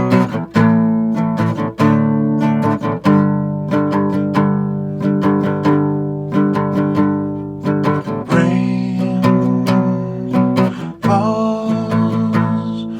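Acoustic guitar playing a slow instrumental intro, chords picked and strummed, each ringing on into the next.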